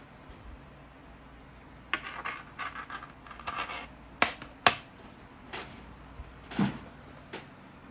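Small hard objects being handled: a couple of seconds of scratchy rubbing and scraping, then several sharp clicks, the loudest two close together in the middle of the stretch.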